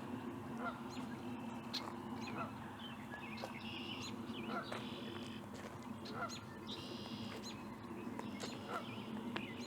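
Several birds calling. Short, buzzy, high calls come every second or two, with smaller chirps between them.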